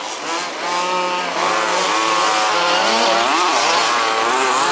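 Several 1/5-scale RC buggies' small two-stroke petrol engines racing, each revving up and easing off. Their pitches overlap and rise and fall, with one engine sweeping up and down sharply about three seconds in.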